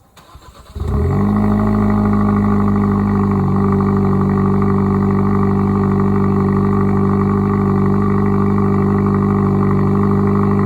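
2021 Kia Forte GT's turbocharged four-cylinder engine cold-started through its stock sport exhaust: a brief crank, then it catches under a second in and settles into a loud, steady idle.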